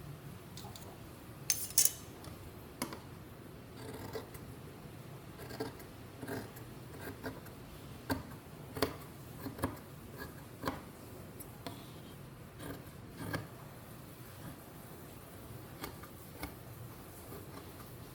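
Scissors snipping fabric in short, irregular cuts, mixed with small clicks of handling; the sharpest, loudest snips come about one and a half seconds in.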